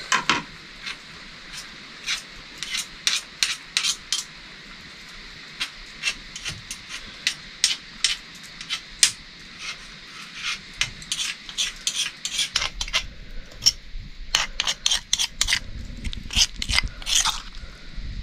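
Metal utensil clinking and scraping against cookware as the potatoes are served out, a string of irregular sharp clinks over a steady faint hiss.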